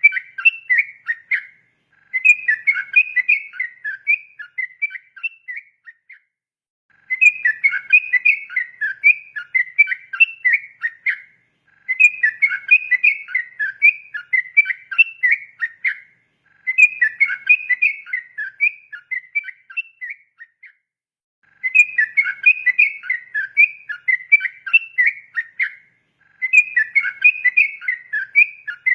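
Yellow-vented bulbul (trucukan) singing its rapid, bubbling whistled song in long phrases, each about four seconds, with short pauses between, over and over.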